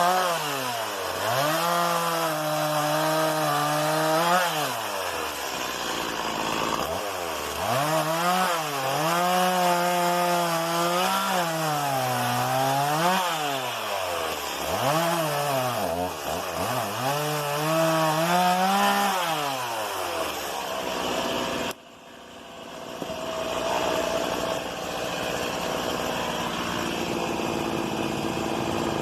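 Stihl MS 170 two-stroke chainsaw cutting wood, its engine pitch dipping under load and climbing back, over and over. About three-quarters of the way through the sound drops off abruptly to a quieter, steadier engine running.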